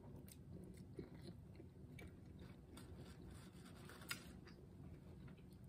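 Faint chewing and wet mouth clicks of a person eating fried noodles, with a sharper click about four seconds in.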